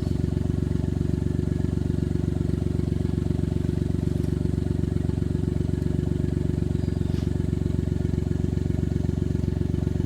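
Suzuki Jimny JA11's small three-cylinder engine running steadily at one low, even speed, without revving.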